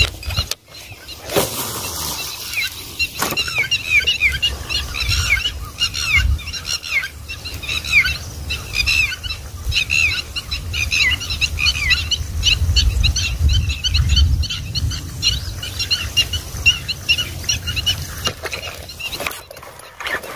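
Birds chirping in quick, short, falling notes, several a second, over a low rumble.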